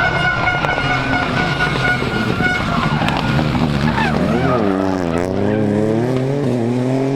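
Rally car engine at high revs, dipping and wavering about four to five seconds in, then climbing steadily in pitch as it accelerates hard. A steady high tone holds over the first three seconds.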